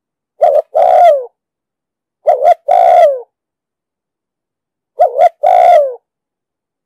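Spotted dove cooing: three calls a couple of seconds apart. Each is a quick two-note stutter followed by a longer coo that drops in pitch at the end.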